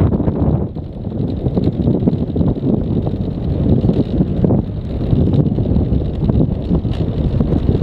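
Wind buffeting the microphone over the rumble of a vehicle moving fast on a bumpy road, steady throughout.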